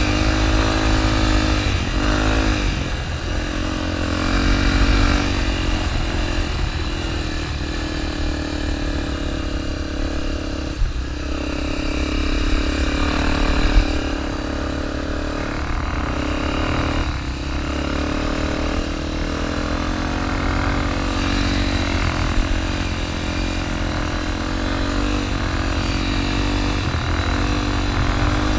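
Honda XR250 Tornado's single-cylinder four-stroke engine running as the motorcycle is ridden, its pitch rising and falling with the throttle.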